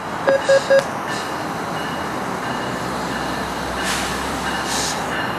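NJ Transit ALP-46A electric locomotive and its train approaching, a steady running noise of wheels and motors. Three short electronic beeps come within the first second, and two brief hisses a few seconds in.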